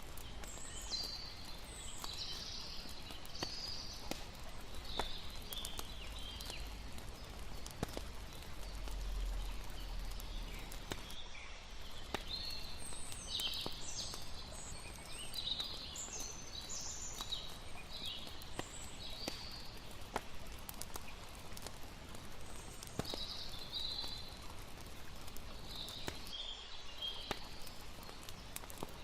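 Layered night ambience: a campfire crackling with sharp pops, over a steady hiss of flowing water, with clusters of high chirping calls coming and going.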